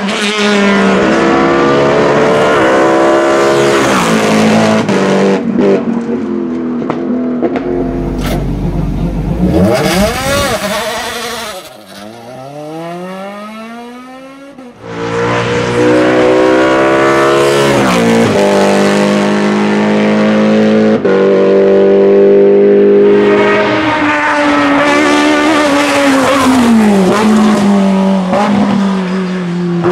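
Hillclimb race car engines at full throttle, pitch climbing through each gear and dropping sharply at every upshift. About twelve seconds in the sound falls quieter with a falling pitch as a car moves off, then another car comes through loud, shifting up through its gears.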